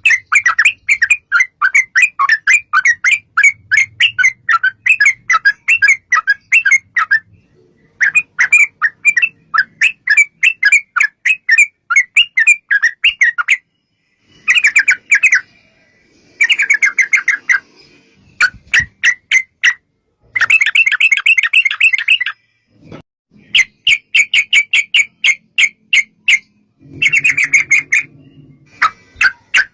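Yellow-vented bulbul (trucuk) singing in long rapid runs of chirping notes, about four notes a second, several bouts broken by short pauses.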